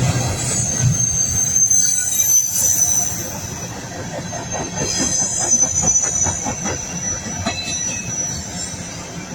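Cars of a long coal train rolling past, their steel wheels squealing in high, wavering tones over a steady rumble. A run of rhythmic rail-joint clicks comes through the middle.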